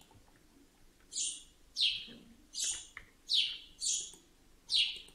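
A bird chirping over and over: six short chirps, each falling in pitch, about one every two-thirds of a second.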